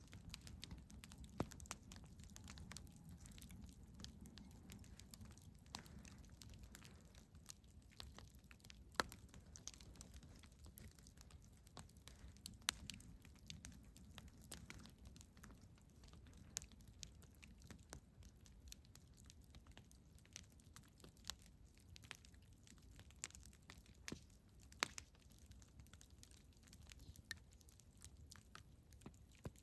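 Wood campfire crackling: irregular sharp pops and snaps, a few louder than the rest, over a low steady rumble of the burning fire.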